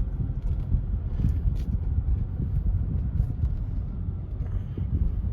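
Steady low road rumble inside the cabin of a moving 2022 Rivian electric pickup: tyre and road noise with no engine sound, and a few faint ticks and rattles.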